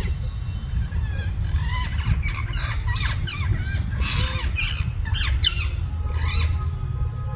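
Parrots squawking harshly at each other in a quick squabble: a rapid run of short, rasping calls over a steady low rumble.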